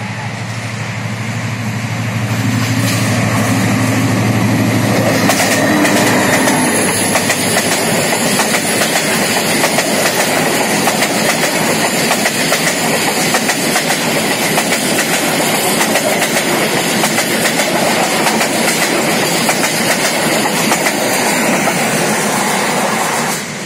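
Bangladesh Railway passenger train passing close by at speed. A steady low drone builds over the first few seconds as it nears, then the coaches roll past with continuous wheel clatter on the rails. The sound drops off sharply near the end.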